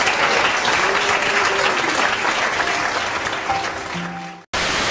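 A roomful of people clapping, fading out about four and a half seconds in, when a steady hiss cuts in abruptly.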